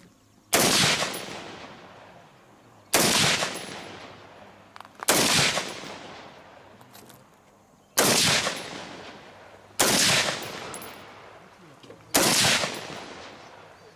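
Six single gunshots at a slow, steady pace, about two to three seconds apart, each sharp crack trailing off for a second or two.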